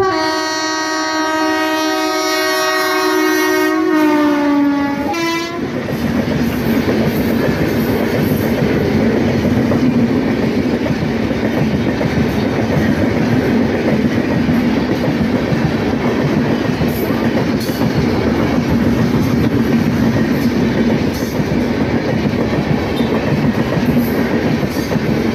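Locomotive horn sounding one long blast of about five seconds, its pitch sagging near the end. Then a passenger train rushes past at speed, with a steady rumble and the clickety-clack of its wheels on the rails.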